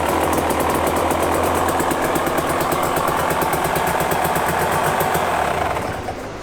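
Dirt bike engine running steadily at idle, dying away near the end.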